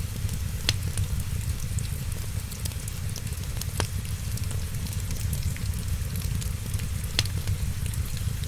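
Wood fire crackling over a steady low rumble and hiss, with many small snaps and three louder pops spread a few seconds apart.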